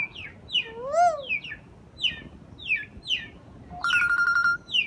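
Pet hill myna calling: a string of short, sharp downward-sliding whistles and one rising-then-falling whistle, then, near the end, a steady trilled ring like a telephone's, held for under a second.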